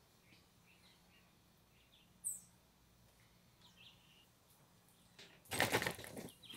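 Faint, scattered chirps of small birds, with one brief sharp high chirp about two seconds in. Near the end, a loud rustling scrape of about a second as the phone that is recording is handled and moved.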